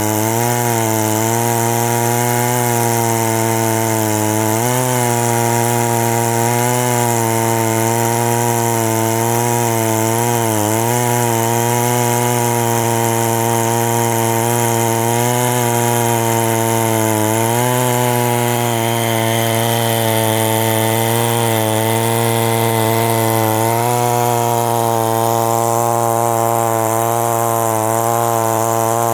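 Two-stroke chainsaw running at high revs under load, cutting into the base of a very large tree trunk. Its engine note is steady but dips briefly several times as the saw bogs in the cut.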